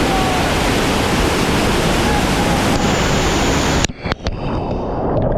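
Loud, steady roar of a waterfall close to the microphone, cutting off abruptly about four seconds in; a quieter rush of water with a few sharp knocks follows.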